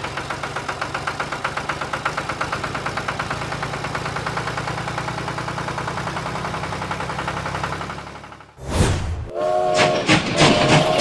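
Steady, rapid mechanical chugging, about ten pulses a second over a low hum. It fades out about eight seconds in, a whoosh follows, and music with a beat starts.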